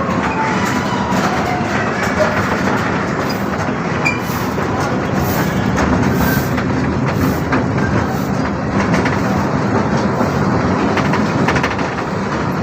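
Amusement-park ride train running on its track, heard from on board: a steady noise of wheels and carriages on the rails.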